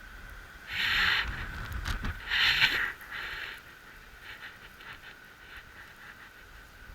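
Campfire that is not burning well, with two loud hissing rushes about a second and a half apart, then fainter short hisses and a few crackles.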